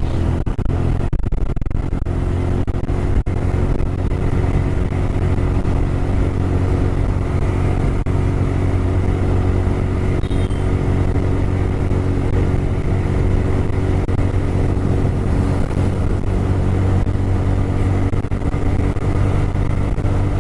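TVS Raider 125's single-cylinder engine running under way at a steady speed, its pitch holding level.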